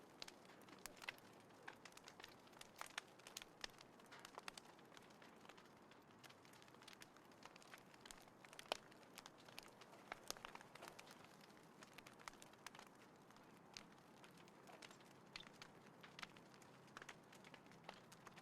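Small wood fire crackling in a compact folding fire pit: faint, irregular sharp pops and snaps, several a second.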